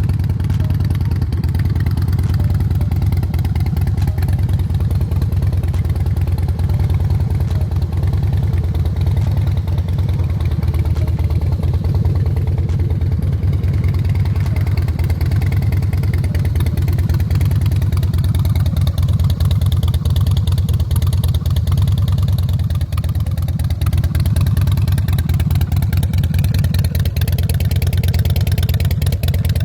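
Harley-Davidson Softail Deluxe's Twin Cam V-twin engine running steadily.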